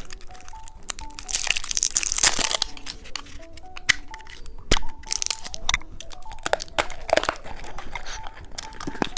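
Plastic candy wrapper crinkling and tearing, with sharp cracks and crunching as the candy is bitten, over soft background music of simple steady notes.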